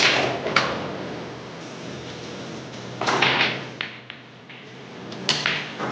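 Billiard balls clacking: sharp cue-ball strikes and ball-on-ball hits, with a quick cluster of several clacks about three seconds in and another sharp clack near the end.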